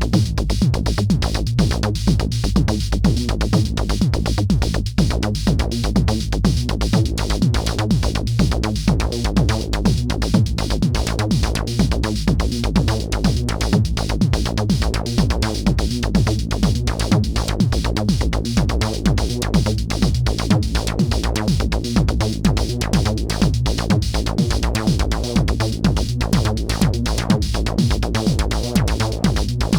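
Homemade DIY modular synthesizer playing a live techno groove: a steady, fast electronic drum pattern over a sustained deep bass, raw synth sound with no effects.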